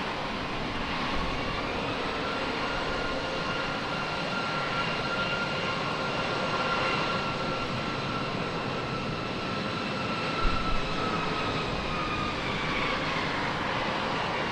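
Jet engines of a Delta Boeing 767-400 airliner landing and rolling out: a steady rushing roar with a whine that rises about two seconds in, holds, and eases near the end. A brief low thump comes about ten seconds in.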